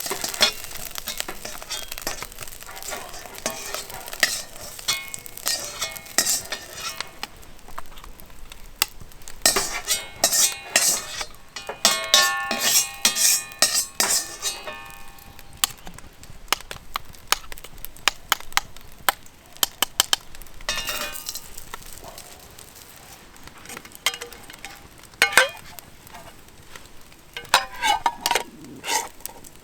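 A metal utensil scraping and clanking against an iron wok while fried rice is stir-fried and sizzling. Bouts of clatter are heaviest about a third of the way in and again near the end.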